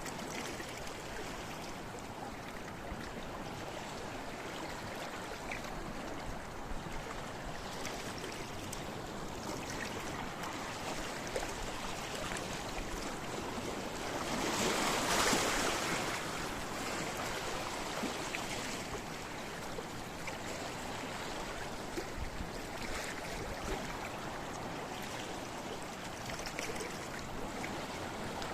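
Sea waves washing on a rocky shore: a steady wash of water, with one larger wave breaking louder about halfway through.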